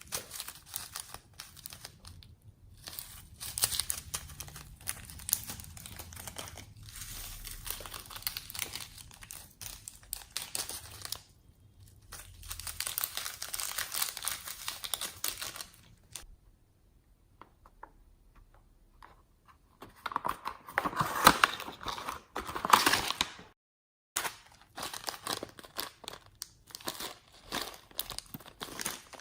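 Slime being squished and stretched by hand, a crackly, popping, crinkling sound in repeated bursts, with a louder stretch of squishing near the end.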